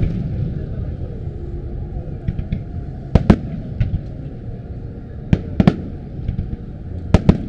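Fireworks starmine barrage: sharp bangs of shells bursting, several in quick pairs about every two seconds, over a constant low rumble.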